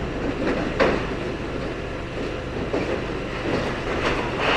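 Demolition excavator's engine running hard under load as its attachment grips and pulls at the building's structure, with metallic crunches and screeches about a second in, near three seconds, and just before the end.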